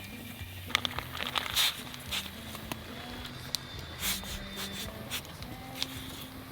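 Soft background music, with a cluster of sharp clicks and taps about a second in and a few more later on, from handling cooking utensils and ingredients.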